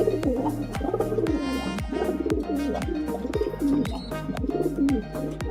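Domestic pigeons cooing over background music with a steady thumping beat.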